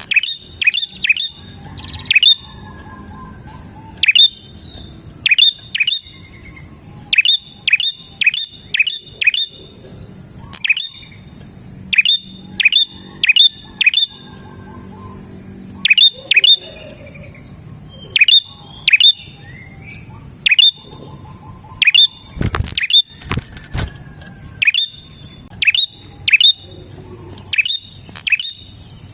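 Prenjak (prinia) singing loudly: sharp, quick downward-sweeping chirps in rapid groups of two to four, repeated every second or so. A steady high whine runs underneath, and a single knock comes about two-thirds of the way through.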